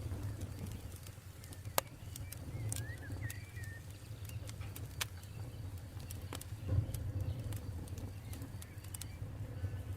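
Campfire burning: wood crackling with irregular sharp pops over a low steady rumble of the flames, two pops louder than the rest. A few short bird chirps are heard about three seconds in.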